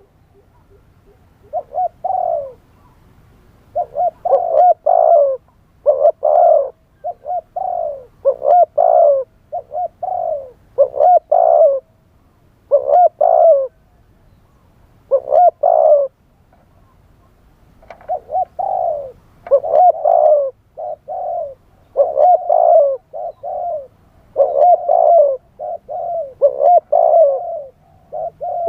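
Spotted dove cooing, a wild-type voice used as a decoy call: short phrases of a few quick coos, repeated again and again with pauses of a second or two between them.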